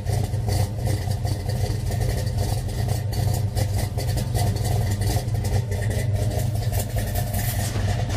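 A muscle car's engine running steadily with a deep, even rumble and no revving.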